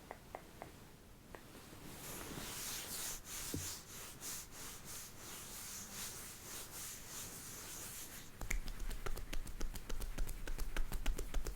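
Close-up scratching and rustling with many small ticks. About eight seconds in it turns into a quick run of sharper crackling clicks over a low rumble.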